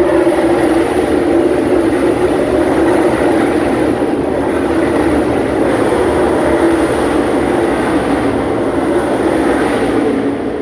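NASCAR Xfinity stock cars' V8 engines running at speed on track, a loud steady drone whose pitch wavers gently up and down as the cars go by.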